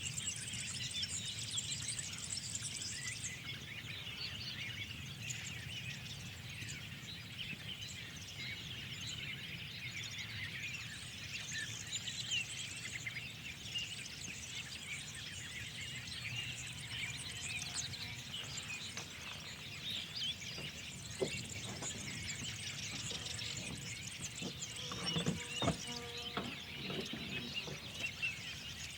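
Many songbirds chirping and twittering in a dense spring chorus over a steady low background rumble, with a brief lower-pitched call near the end.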